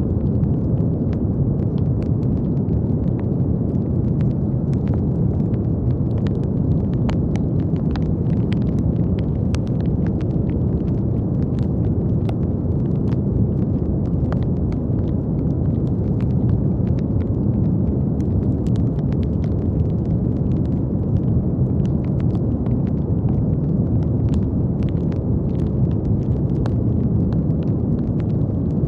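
Steady brown noise, a deep, even rumbling hiss weighted to the low end, with faint small crackling clicks scattered all through it.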